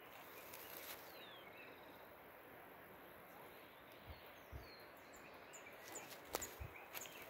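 Faint outdoor ambience: a low steady hiss with a few distant bird chirps, short high falling notes that cluster about five to seven seconds in. A few soft low bumps and a click come in the second half.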